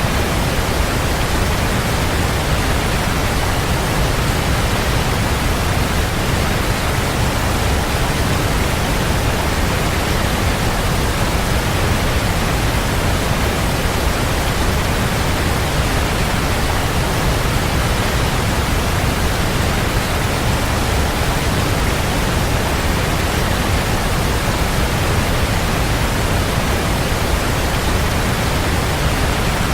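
Waterfall: a steady, even rush of falling water, strongest in the low end, unchanging throughout.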